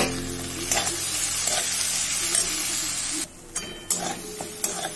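Mashed boiled egg sizzling in oil and onion-chilli masala in a kadai, stirred with a steel spatula that scrapes and knocks against the pan several times. The sizzle briefly drops away a little past three seconds in.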